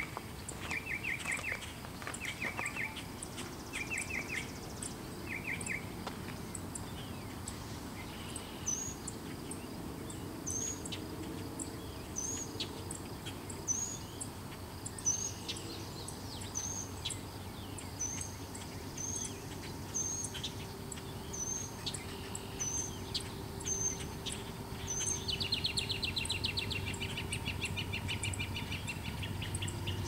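Songbirds singing: short chirping trills at first, then a thin upslurred call repeated about every second, then a dense buzzy trill near the end. Under them runs a faint low rumble that grows a little near the end.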